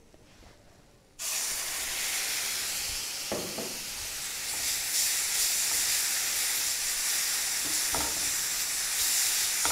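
Wet mint and coriander paste hitting hot oil and spices in a frying pan: a sizzle that starts suddenly about a second in and keeps going steadily, with a few soft knocks of a silicone spatula stirring it.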